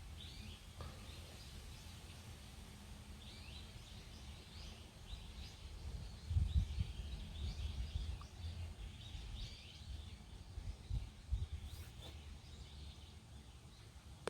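Small birds chirping repeatedly, short curved calls, over a low rumble that swells a few times.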